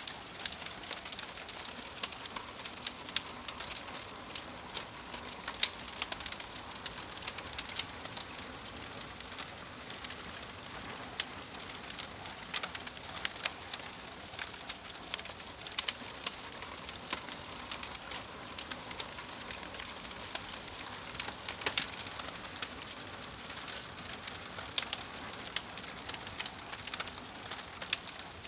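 Fire crackling: a steady soft hiss with frequent sharp, irregular pops and snaps.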